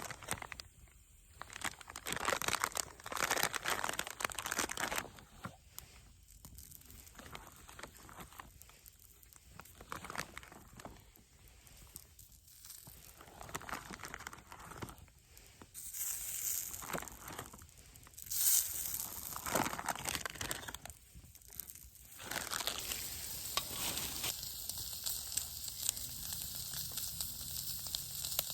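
Irregular crinkling and tearing of packaging in bursts. About three quarters of the way through, food starts sizzling steadily on a hot iron griddle plate over a campfire.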